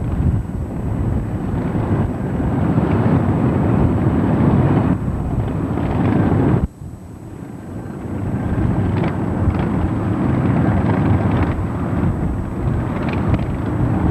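Loud, steady rumble of vehicle engines with wind buffeting the microphone. It drops away abruptly about seven seconds in, then builds back up.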